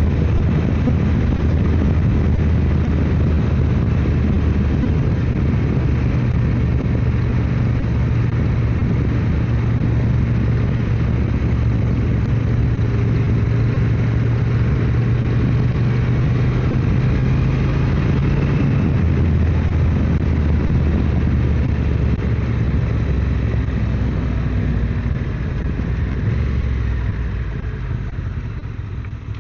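Motorcycle engine running at road speed, heard from on the bike, with a steady low engine note. The engine note drops about two-thirds of the way through, and the sound eases off near the end.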